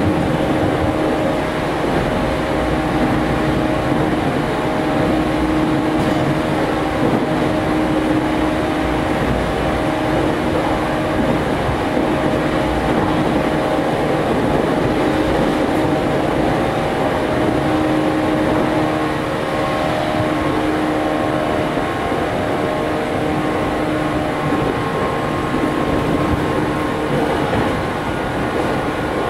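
JR 413 series electric multiple unit running along the line, heard from inside the car: a steady rumble of wheels on rails with a faint hum that comes and goes.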